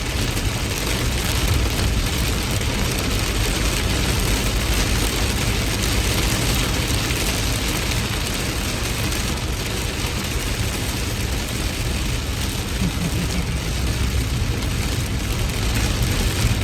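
Heavy rain falling steadily, a dense hiss with a low rumble underneath that swells a little near the end.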